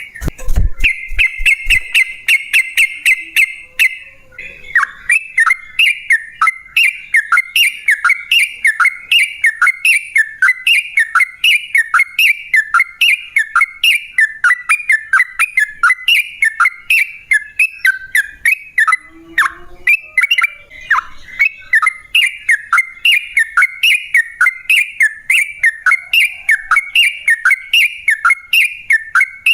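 Yellow-vented bulbul (trucukan) singing a long, unbroken run of rapid repeated notes, each sliding down in pitch, about two to three a second after an opening fast trill. There is a brief low thump at the very start.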